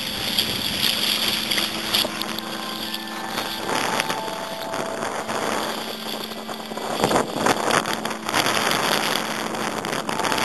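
Wind buffeting the microphone over choppy water splashing against a paddled kayak, with irregular splashes that grow louder about seven seconds in.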